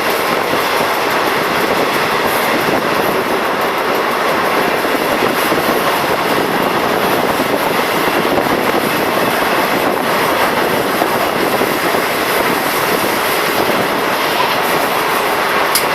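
A train running along the track, a steady, loud noise of wheels on rail with no change in pace.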